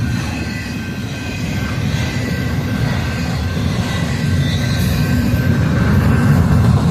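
ZSCG2 freight train rolling past: a steady low rumble of wheels on rail, with faint thin high tones running over it.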